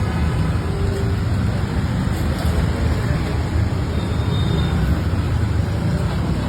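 Steady low rumble of street noise, like road traffic, with no distinct events.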